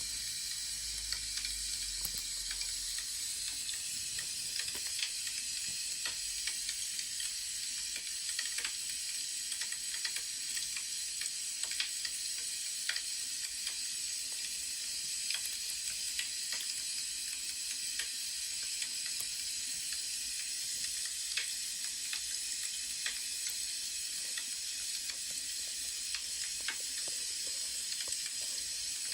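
Crackling wood fire: a steady hiss with frequent small, irregular pops and crackles.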